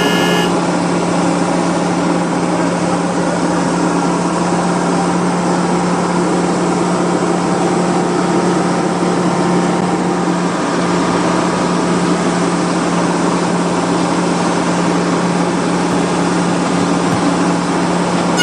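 Steady engine-like hum from a toy vehicle, holding one pitch throughout with no revving.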